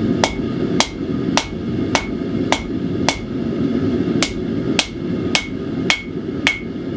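Hand hammer forging hot 80CrV2 steel bar stock on an anvil: a steady rhythm of sharp strikes, a little under two a second, each with a short metallic ring, over a steady low rumble.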